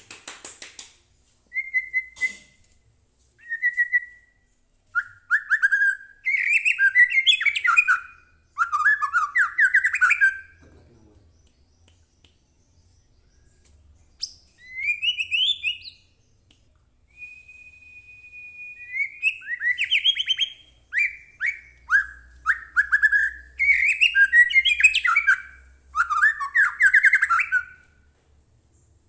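White-rumped shama (murai batu) singing in separate phrases: clear whistled notes, one long steady whistle about two-thirds in, and fast rattling, warbling runs. There is a pause of a few seconds near the middle.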